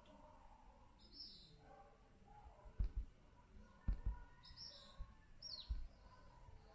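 Faint small-bird chirps: short high calls a few times, the last one falling in pitch near the end. Several short dull low thumps, louder than the chirps, come in the second half.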